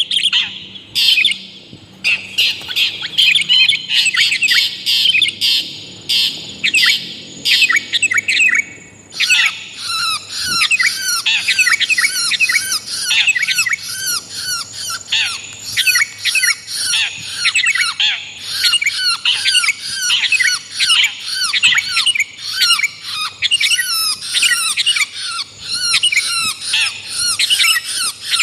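Dense, harsh chattering of songbirds in quick runs of short downward-slurred notes, with a brief pause about nine seconds in. It is a lure recording that mixes long-tailed shrike (cendet) calls with sooty-headed bulbul (kutilang) calls.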